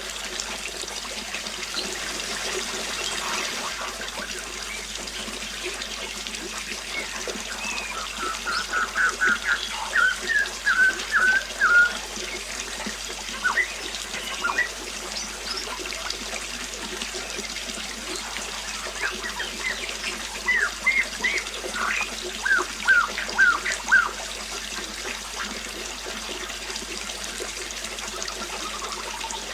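Water trickling steadily, with a songbird calling in two bouts of quick, repeated chirps, about a third of the way in and again past the middle.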